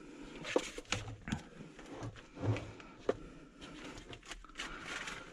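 Handling noises as a float switch and its cord are worked loose in a sewer ejector pump basin: a few sharp knocks and clicks with short spells of scraping and rustling between them.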